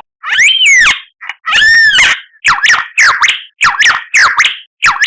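White-rumped shama (murai batu) singing loud, clear whistles: two arched, rise-and-fall notes, then a run of about five quick down-slurred notes.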